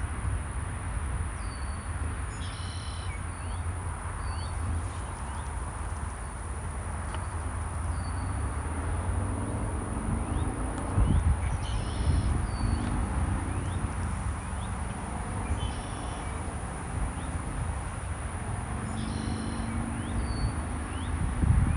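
Birds calling outdoors: short high chirps about every two seconds and a louder, fuller call repeating about every four seconds, over a steady low rumble.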